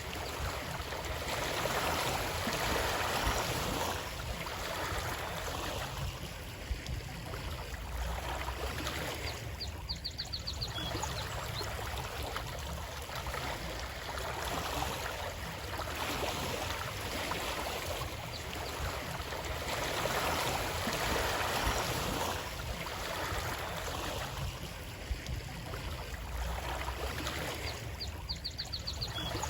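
A stream of running water flowing steadily, its rush slowly swelling and easing. A short, high, ticking trill sounds twice, about ten seconds in and near the end.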